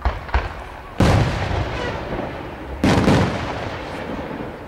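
Aerial firework shells bursting overhead: a couple of small sharp pops at the start, then two loud booms about two seconds apart, each followed by a long rumbling echo that slowly dies away.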